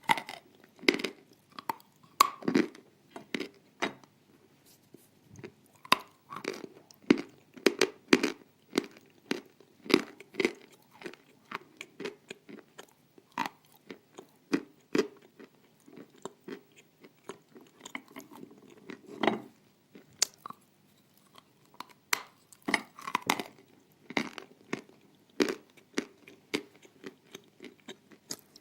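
Close-up crunching and chewing of hard, dry edible clay pieces: irregular sharp crunches, a few a second, with softer chewing between.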